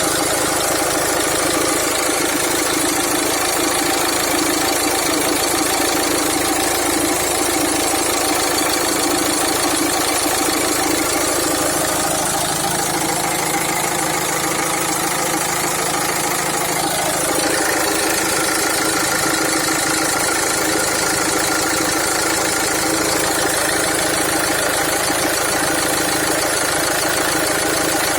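Renault Trafic 1.9 dCi diesel engine idling steadily with a knock from the timing-belt area. The knock came on suddenly, and the owner means to have the timing belt and its parts checked.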